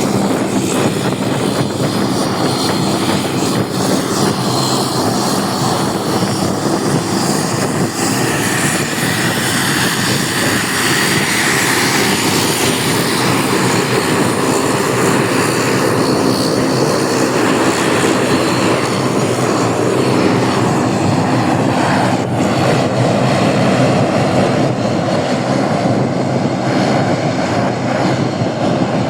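Jet airliner engines running: a loud, steady engine noise with a low hum beneath it, and the sound shifts about two-thirds of the way through.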